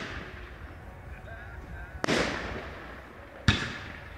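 Aerial fireworks shells bursting overhead: a loud bang about two seconds in and another sharp bang about a second and a half later, each followed by a long echoing decay.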